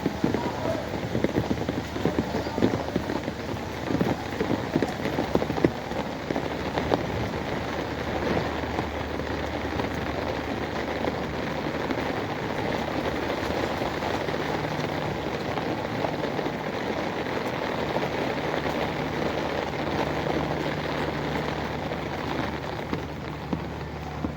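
Rain falling steadily on hard surfaces, a dense patter of drops with sharper splashes in the first half. A low steady hum runs underneath and grows stronger about halfway through.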